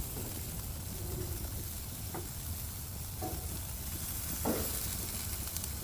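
Jerk-marinated chicken wings sizzling on a grill in a steady hiss, with a few short knocks in the middle.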